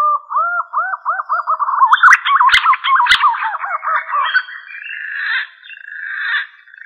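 Green pigeon (punai) whistling its song as a lure call: a run of arched whistles that come faster and faster, then louder, jumbled notes broken by two sharp clicks partway through, ending in a wavering held whistle.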